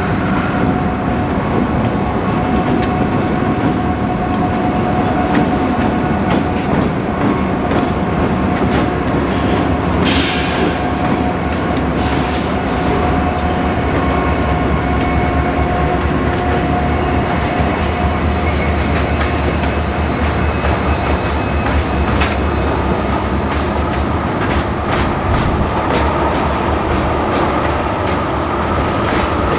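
A train rolling past: a steady, loud rumble of wheels on rails with clicking over the rail joints, and thin, steady wheel-squeal tones running through it.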